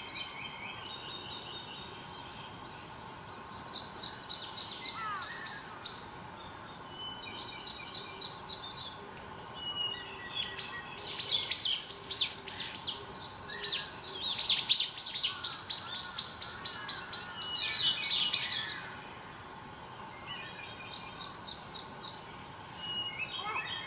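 Wild songbirds singing: a short phrase of rapid, high repeated notes comes back every few seconds, and several birds call over one another in the middle.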